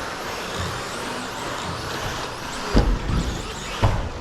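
Electric RC stadium trucks with 13.5-turn brushless motors running around the track: a steady hiss of motors and tyres with faint high whines. Two heavy low thumps come about three and four seconds in.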